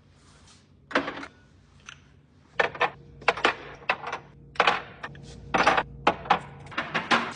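Irregular clinking and knocking of hard objects being handled, about a dozen sharp clatters, thickest in the second half, over a faint steady low hum.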